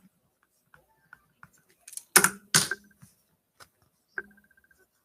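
Trading cards and their plastic holders being handled on a table: scattered light clicks and taps, with two sharper clicks about two seconds in and a short run of rapid ticks about four seconds in.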